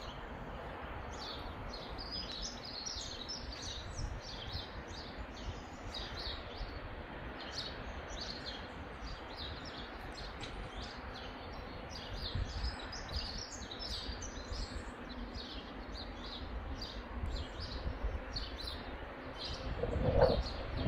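Small birds chirping and twittering repeatedly over a low, uneven rumble of outdoor air noise, with a louder bump near the end.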